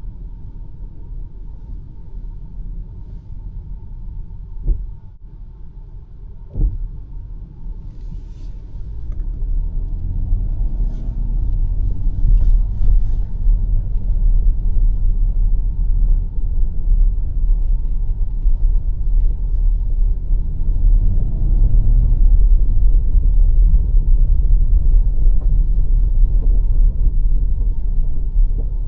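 BMW X5 M50i driving, a low engine and road rumble that gets louder as the car speeds up about eight seconds in, with the engine's pitch sweeping up and back twice. Two short knocks a few seconds in.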